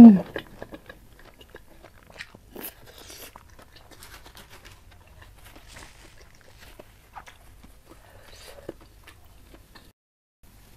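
Close-miked chewing of a mouthful of fried stuffed tofu: sparse, soft wet mouth clicks and smacks. Right at the start, a short loud falling 'mm' hum.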